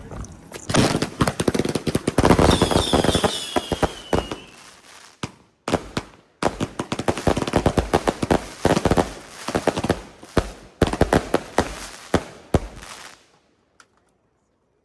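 A 73-shot firework cake firing a rapid string of shots for about twelve seconds. About two seconds in, a whistle falls in pitch. The shots pause briefly about five seconds in, then go on until they stop near the end.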